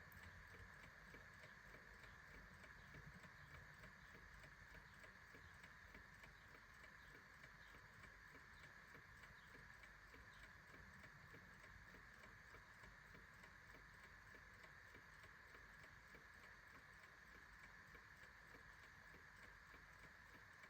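Clock ticking faintly and steadily, over a low steady hiss.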